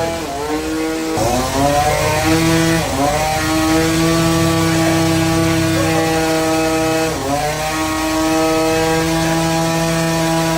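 An engine running at a steady speed, its pitch dropping briefly and recovering about four times, as when it takes a load.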